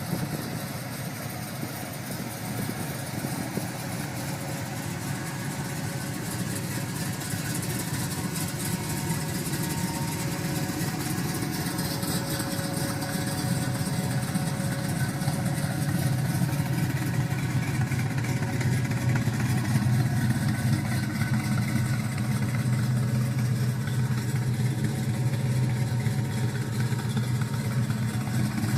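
A car engine running steadily at a low rumble, slowly growing louder.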